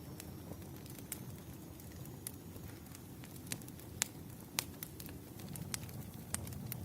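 Wood fire crackling: a low, steady rumble of flames with scattered sharp pops and snaps, the loudest about four seconds in.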